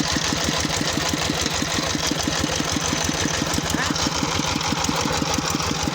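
An engine running steadily at low speed, with an even chugging pulse about eight times a second.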